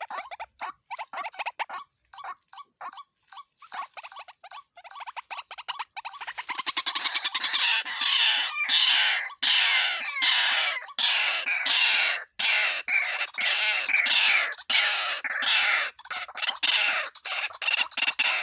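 White-breasted waterhen calling: rapid harsh pulsed notes, sparse at first, then from about six seconds in a loud, dense, rhythmic run of calls.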